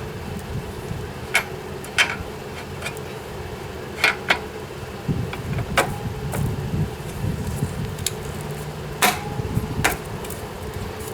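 Scattered sharp metallic clinks and knocks of hand tools and parts being handled during engine work, about a dozen irregular strikes, over a steady background hum.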